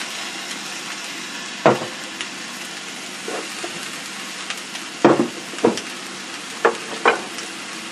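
Fried rice sizzling steadily in a stainless steel wok, with five sharp knocks: one just before two seconds in and four between five and seven seconds.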